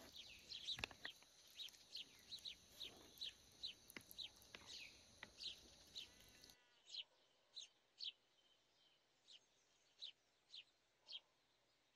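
Faint bird chirps: short falling calls repeated about twice a second, over a low background hiss that stops abruptly about halfway through.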